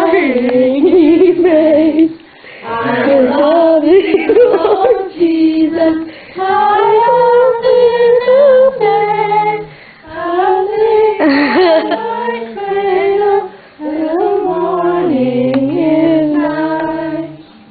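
A small group singing a song together, women's voices the loudest, in phrases separated by short pauses.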